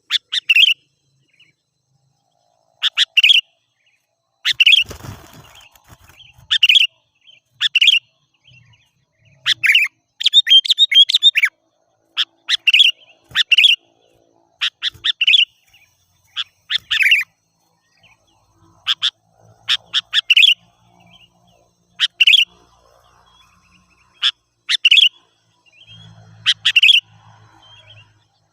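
Sooty-headed bulbul (kutilang) calling: short, loud chirping phrases repeated every second or two, with a longer run of notes about ten seconds in. There is a brief rustle about five seconds in.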